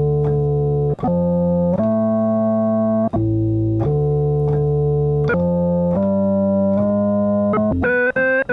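Fender Rhodes electric piano played through an Electro-Harmonix Bass Mono Synth pedal on its Sub setting: a deep, organ-like single-note synth bass line of held notes changing about once a second. Near the end it switches to quicker, shorter, higher notes.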